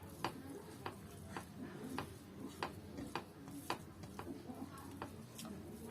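Food being mixed and scooped on a plate, with light clinks against the plate about twice a second over soft squishing.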